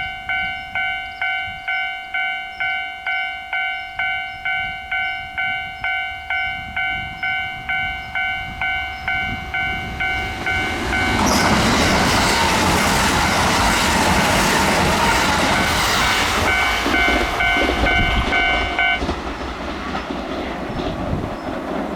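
Level-crossing warning bell ringing about twice a second. About eleven seconds in, a Kintetsu train runs past loudly with rushing wheel noise over the bell. The bell stops a few seconds before the end and the train noise fades.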